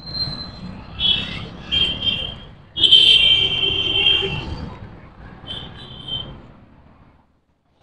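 Vehicle horns honking several times: two short toots, then a longer, louder blast of about a second and a half, then one more short toot.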